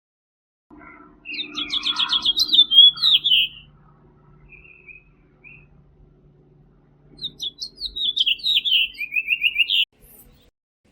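A finch singing two song phrases a few seconds apart, each a quick series of repeated notes that drops in pitch and ends in a short flourish.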